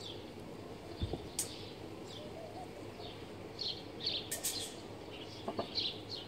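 Small birds chirping in short repeated calls, with a dull thump about a second in and a few sharp knocks later on.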